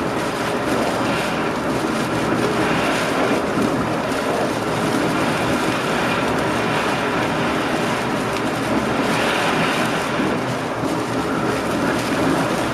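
Train running along the track, heard from inside the driver's cab: a steady, even running noise of wheels on rails.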